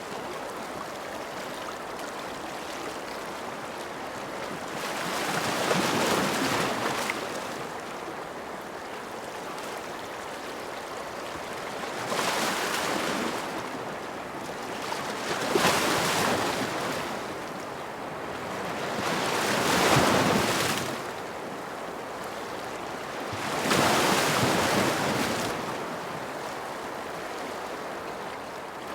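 Ocean waves breaking, about five swells rising and falling over a steady wash of surf.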